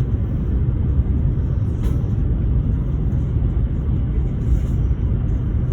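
High-speed train running at speed: a steady low rumble with a fainter hiss above it.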